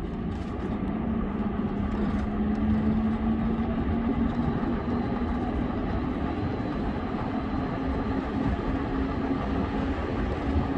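A vehicle engine running steadily, with a low continuous rumble of road and wind noise; its hum drifts slightly in pitch.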